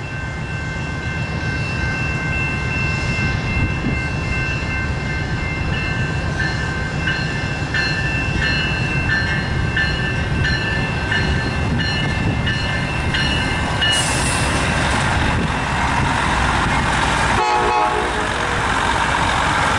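CN track-evaluation test car, a self-propelled diesel railcar, rumbling closer and passing, its engine and wheels growing louder on the rails. Over it a grade-crossing bell rings steadily, striking about twice a second, and stops about two-thirds of the way through.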